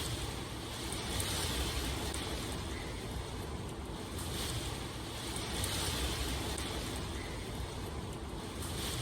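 Steady rain ambience: a dense hiss of falling rain over a low rumble, swelling a little every few seconds.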